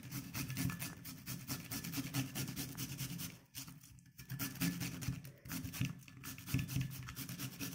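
A whole unpeeled cucumber rubbed quickly back and forth on a grater, a fast run of rasping strokes that stops for about a second midway, then carries on.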